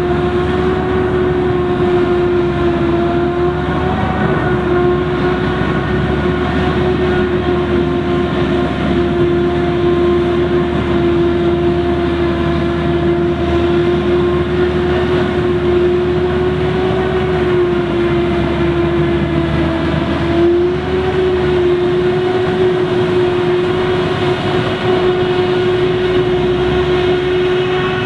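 Claas Jaguar 980 forage harvester with its V12 engine running steadily, a loud constant whine with overtones over a deep rumble. The pitch sags briefly twice and recovers.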